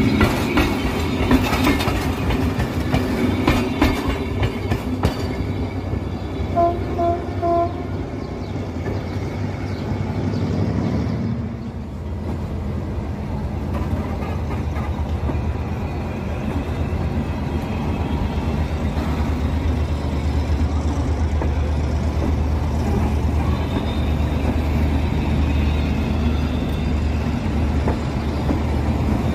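Passenger coaches rolling past, wheels clacking over the rail joints, with three short horn toots about seven seconds in. Then a steady low hum from a train standing at a station platform.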